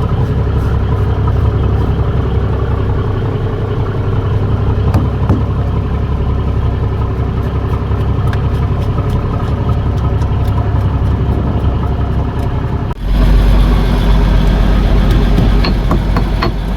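Fishing boat's engine running steadily. About thirteen seconds in the sound breaks off abruptly and comes back louder and deeper.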